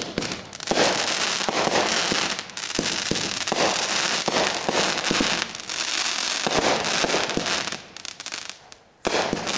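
Consumer fireworks going off in a dense, continuous stream of crackling pops with a hiss behind them. The crackle dies away about eight seconds in, then starts up again sharply just before the end.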